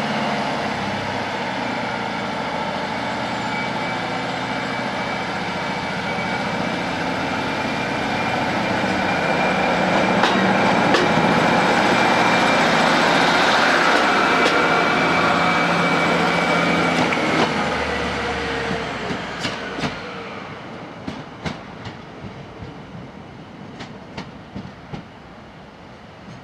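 Diesel multiple unit pulling out and passing close by, its engine and transmission drone and whine building to a peak, then fading as it draws away. Near the end the wheels click over the rail joints.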